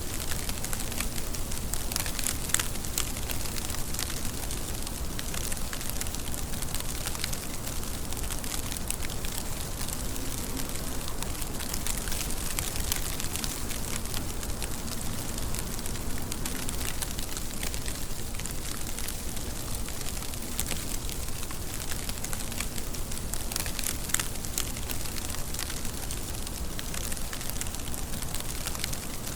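Steady rainfall, a dense even hiss with many fine crackling drop ticks and an occasional louder drip.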